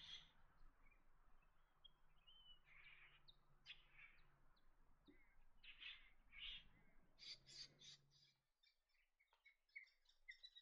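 Faint wild bird calls: a scatter of short, harsh calls and chirps over a low steady hum. About eight and a half seconds in the background drops out, and a few brief high chirps follow.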